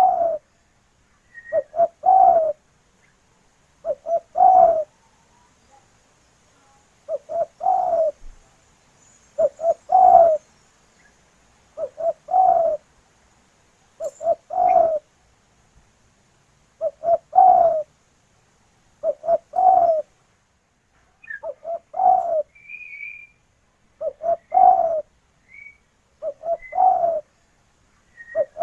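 Spotted dove (tekukur) cooing: the same short phrase repeats about every two to two and a half seconds, a couple of quick low notes leading into a longer, louder coo. Faint high chirps from another small bird come between the phrases.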